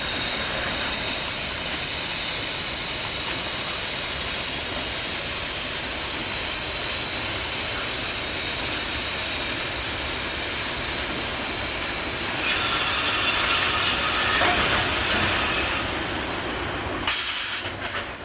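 Freight train running through a rail yard, its wheels making a steady rumble with a thin high squeal that fades out. About two-thirds through, a louder hiss comes up for a few seconds.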